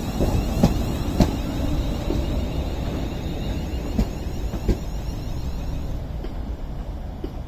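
A train moving slowly at the platform, its wheels clicking over rail joints, several clicks in quick succession early on and two more in the middle, over a steady low rumble that slowly eases.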